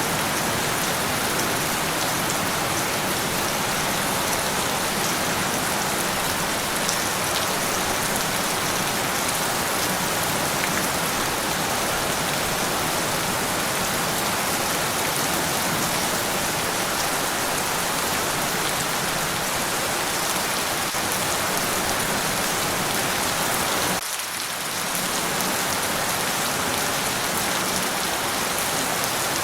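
Steady rain falling, an even hiss of many drops, with a brief dip in level about 24 seconds in.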